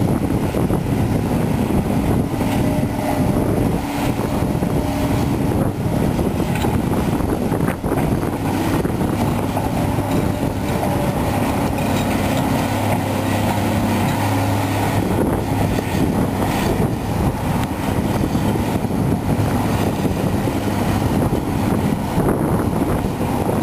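Cat 345B excavator's diesel engine running steadily under load while the machine works, with pitched tones shifting as it digs and swings. There is an occasional short knock, the sharpest about 8 seconds in.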